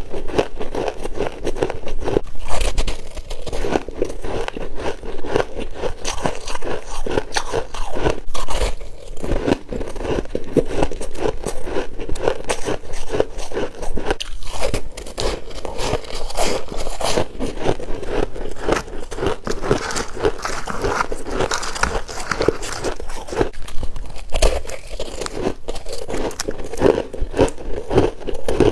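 Person biting and chewing freezer frost: dense, continuous crunching.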